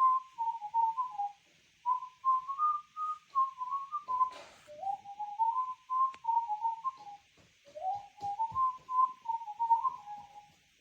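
Pets Alive Chirpy Birds toy owl playing a whistled electronic tune through its small speaker: a quick melody of short stepped notes with brief pauses, and a few light handling clicks partway through.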